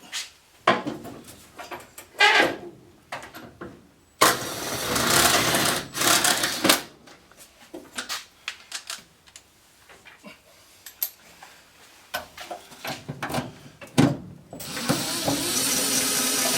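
Cordless power driver run slowly, driving the bolts of a truck door's hinges, in two long runs, one about four seconds in and one near the end, with metal clicks and knocks of the hardware between them.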